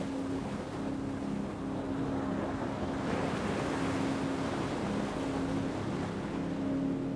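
An ocean wave surging in and washing back, its hiss swelling a few seconds in and fading near the end, over a steady low drone of held tones.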